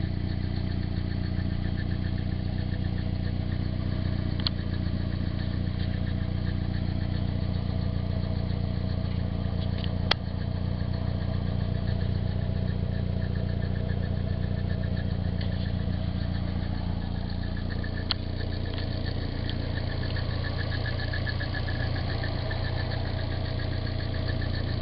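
Nissan 240SX 2.4-litre four-cylinder engine idling steadily with a light rattle, which the owner suspects is either the timing chain hitting its guide or the water pump. A few sharp clicks stand out, the loudest about ten seconds in.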